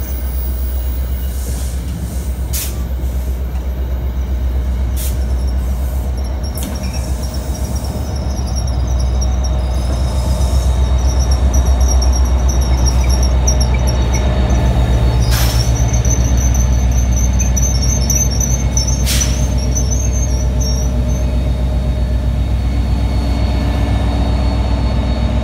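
Passenger train rolling slowly past: the coaches go by, then the diesel locomotive at the rear passes close, its engine's steady low hum loudest about halfway through. Sharp clanks sound now and then from the wheels over the rails, and a thin high wheel squeal runs through the middle.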